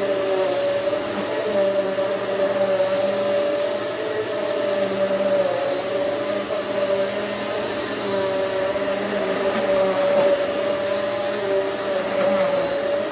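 Hoover Swivel XL Pet upright vacuum cleaner running steadily on carpet, a constant motor whine with a rushing airflow.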